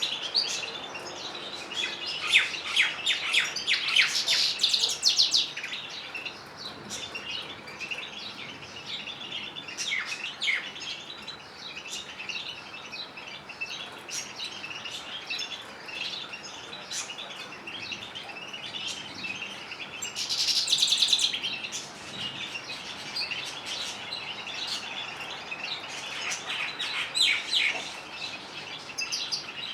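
Canaries and goldfinches singing: a continuous stream of high chirps, twitters and rapid trills. Louder bursts of song come about two seconds in, around twenty seconds, and again near the end.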